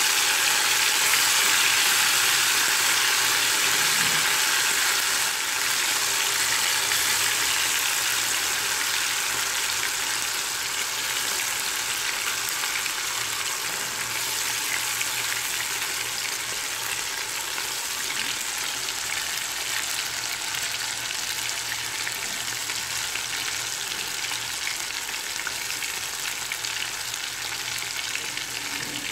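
Marinated prawns frying in hot oil, a steady sizzle that slowly quietens.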